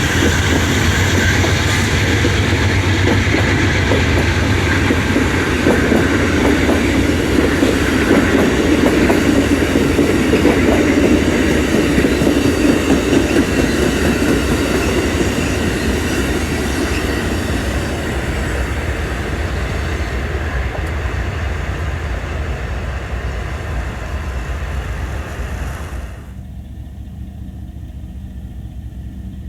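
A train rolling past on the rails, loud and slowly fading. Near the end the noise drops off abruptly, leaving a low steady hum.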